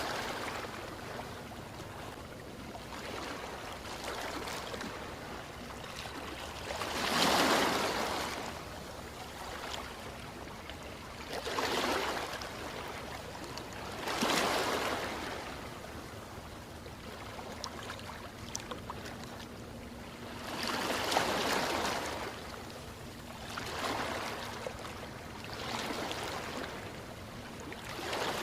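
Ocean waves washing in and out: swells of rushing surf every few seconds over a steady hiss. The biggest surges come about seven seconds in and again around twenty-one seconds.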